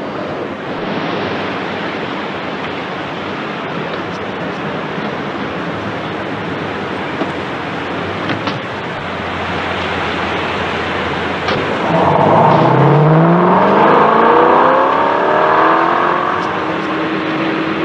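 A Chevrolet Corvette Sting Ray's V8 engine running over a steady rush of wind. About two-thirds of the way through it revs up as the car accelerates, its pitch rising and then holding.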